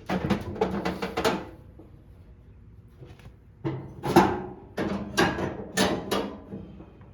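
Clicking and knocking of headlight parts being handled and pushed into place on a lawn tractor. There is a quick run of clicks, a pause of about two seconds, then several more knocks.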